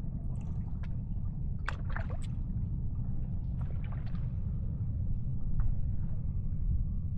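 Water sounds: a few light splashes and trickling clicks, mostly about two and four seconds in, over a steady low rumble.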